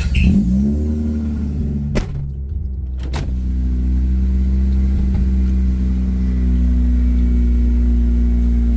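Mazda RX-8's two-rotor Renesis rotary engine catching after cranking, its speed sweeping up and settling in the first second, then running at a steady idle in a cold start. Two short clicks come about two and three seconds in.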